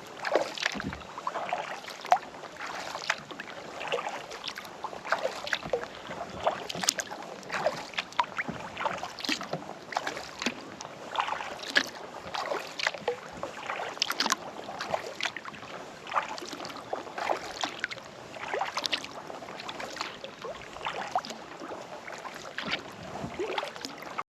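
Kayak paddling: the paddle blades dipping into the lake water, with frequent short, irregular splashes and drips from the blades.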